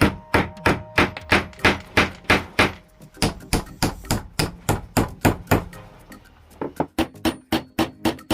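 Hammer striking in a fast, even run of blows, about three a second, with a short pause a few seconds in and another about six seconds in.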